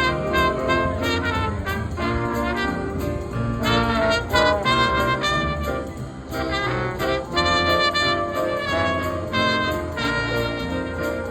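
Jazz played by a band with brass instruments: a run of quick horn melody notes over a steady bass line.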